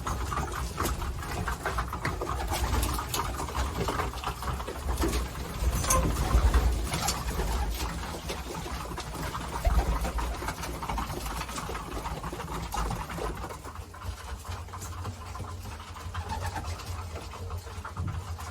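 Racing pigeons cooing, with many scattered short clicks and scuffles and a low rumble underneath.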